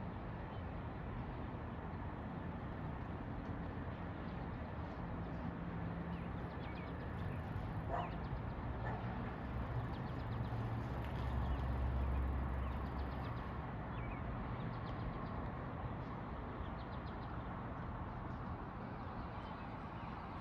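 Outdoor background noise with a passing vehicle: a low engine sound that builds, drops in pitch and is loudest about twelve seconds in, then fades. A few short faint calls, like distant birds or a dog, come through around the middle.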